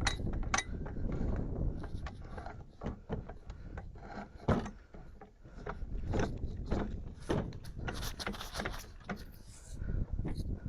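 Tools and equipment being handled: irregular clicks, knocks and rattles, with one heavier knock about halfway through.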